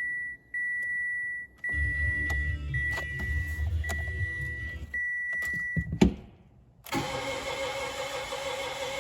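Starter cranking the flooded 1.2-litre three-cylinder engine of a 2017 Mitsubishi Mirage for about four seconds without it catching, over a continuous high in-car warning chime. Near the end there is a sharp click, then a brief pause, then a steady running sound.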